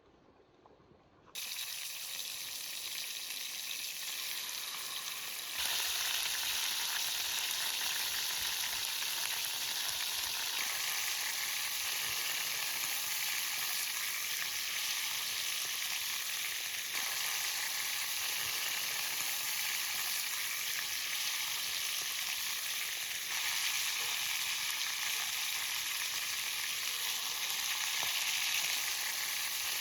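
Food frying and sizzling in hot oil or fat. The sound starts abruptly a little over a second in, grows louder about five seconds in, and then holds steady.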